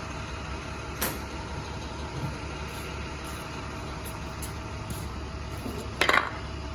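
Engine idling with a steady low drone. There is a sharp click about a second in and a brief, louder burst of noise near the end.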